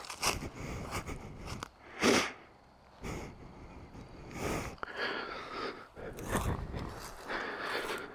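Heavy, noisy breathing close to the microphone, with a sharp, loud exhale about two seconds in and several softer breaths after it.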